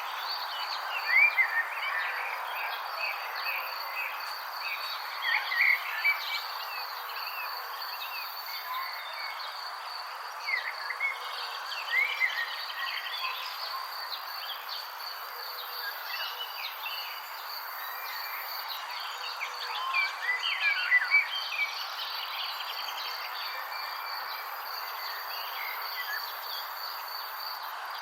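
Outdoor nature ambience: insects trilling steadily over an even background hiss, with clusters of short bird chirps about a second in, around five to six seconds, around eleven to twelve seconds, and around twenty-one seconds.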